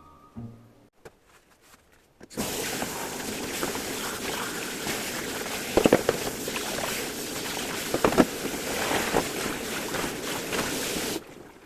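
Kitchen tap water running steadily into the sink, with a few dishes knocking under the stream, then shut off abruptly near the end. A few faint clicks come before the water starts, about two seconds in.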